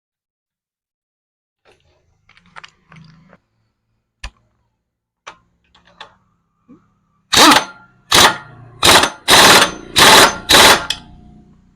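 Power impact wrench run in six short rattling bursts, tightening bolts once the engine's timing marks are lined up, after a few faint clicks of parts and tools being handled.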